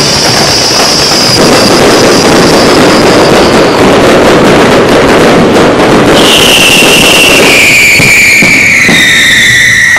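Dense barrage of aerial fireworks crackling and popping without a break, with whistling shells. One shrill whistle slowly falls in pitch over the first few seconds, and another starts about six seconds in and slides steadily lower.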